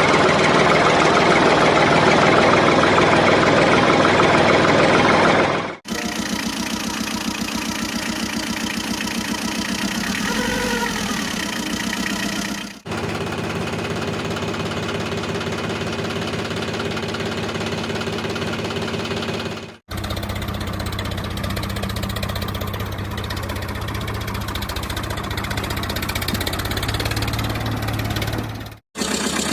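An engine running steadily, heard in several short stretches joined by abrupt cuts; the first stretch is louder than the rest.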